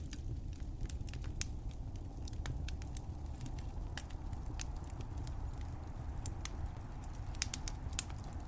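Wood fire crackling: a steady low rumble of flames with irregular sharp pops and snaps, several close together near the end.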